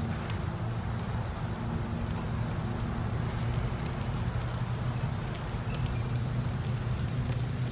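Campfire burning in a fire pit under a steady low hum, with a faint steady high insect-like trill and a few light crackles.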